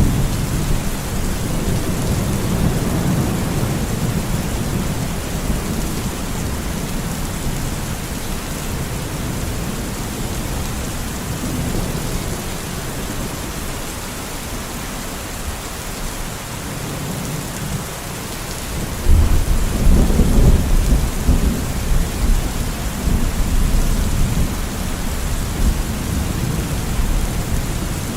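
Steady rain with thunder: a low rumble in the first few seconds, then a louder roll of thunder that breaks in suddenly about two-thirds of the way through and dies away over several seconds.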